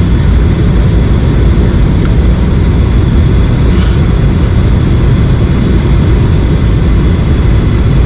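Steady low drone of a Boeing 737-800's CFM56-7B turbofan engines heard from inside the cabin in flight, with a faint steady high whine above it.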